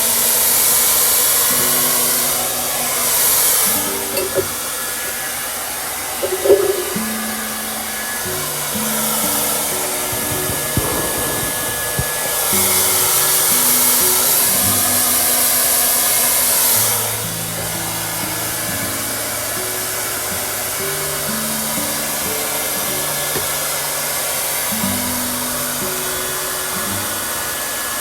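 Hand-held hair dryer blowing, a steady rush of air that grows louder for a few seconds near the start and again in the middle, then settles back. Soft background music plays underneath.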